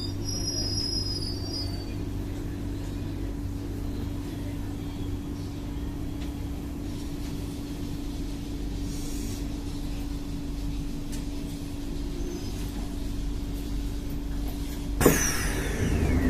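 Inside a C151A MRT train: a steady electrical hum from the onboard equipment over a low rumble. Near the end comes a sharp thump, followed by about a second of hissing with a whine that falls in pitch.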